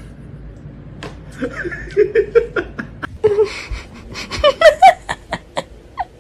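A person laughing in short repeated bursts that start about a second in, then get higher and louder about four seconds in before trailing off.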